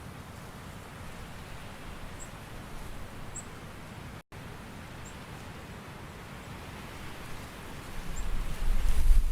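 Steady outdoor nature ambience with an even hiss, like rain or stirring leaves. A few faint high chirps sound over it. The sound drops out for an instant about four seconds in, and a low rumble swells up near the end.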